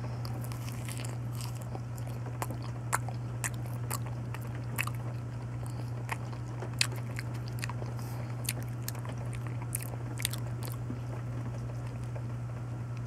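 A person biting and chewing soft banana close to the microphone: scattered, irregular wet mouth clicks over a steady low hum.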